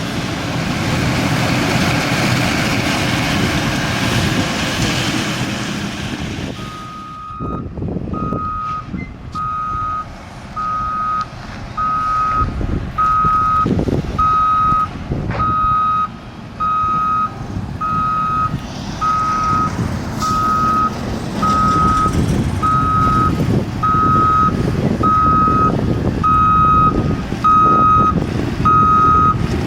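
Caterpillar 120 motor grader's diesel engine running. About seven seconds in, its reversing alarm starts, beeping steadily about once a second over the engine.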